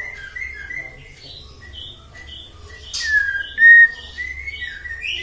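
White-rumped shama (murai batu) singing: a varied run of clear whistled notes and short glides, loudest about three to four seconds in.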